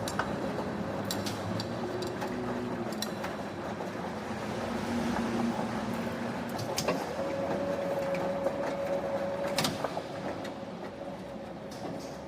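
Factory machinery running with a steady mechanical rumble, a faint hum and a few sharp metallic clicks and knocks.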